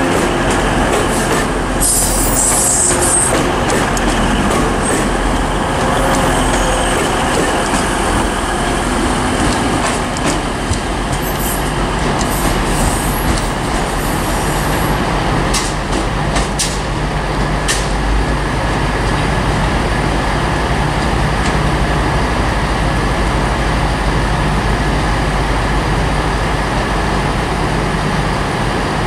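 Train running at a station platform: a steady rumble of engine and rail noise, with a sharp hiss of air about two seconds in and a few sharp clicks around the middle.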